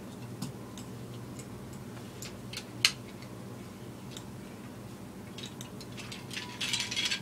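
Scattered small clicks and taps of plastic toy pieces being handled and set down, with one sharper click about three seconds in and a brief rustle near the end.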